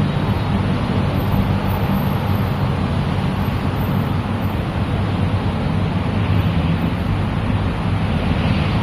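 Steady rumbling noise with a low hum, like a running motor or passing traffic.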